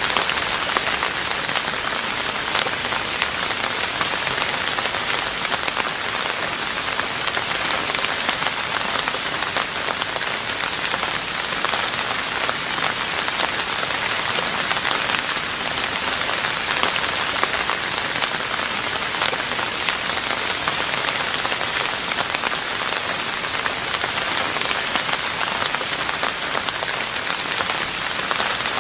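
Steady heavy rain falling on a roof, a dense, even stream of drop impacts with no let-up.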